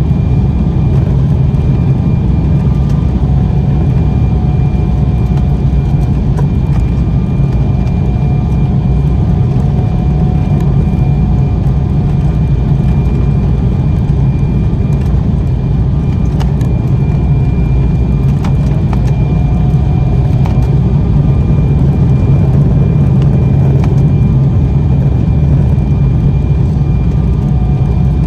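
Steady cabin rumble of an Embraer 190 jet airliner, with its engines and airflow holding level and a faint steady whine above.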